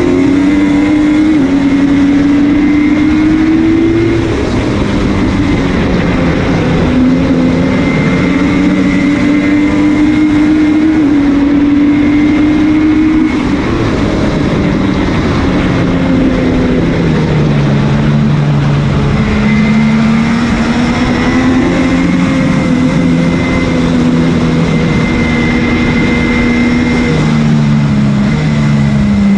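MV Agusta F3's inline-triple engine at racing speed, its pitch climbing and dropping several times through gear changes as the bike accelerates and brakes, with heavy wind rush over the microphone.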